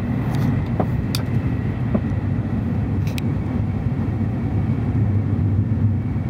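Steady low rumble inside the cabin of a Shinkansen bullet train running at about 225 km/h, with a few short high ticks in the first three seconds.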